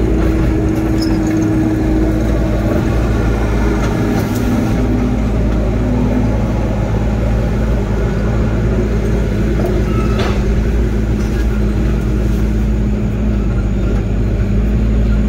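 Diesel engine of a heavy earthmoving machine running steadily at a constant level, a continuous low drone.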